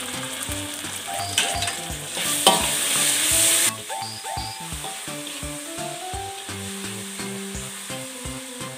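Oil sizzling in a wok as a metal spatula stirs and scrapes through frying garlic, shallots, chilies, galangal and bay leaves. The sizzling swells much louder for about a second and a half, a little over two seconds in.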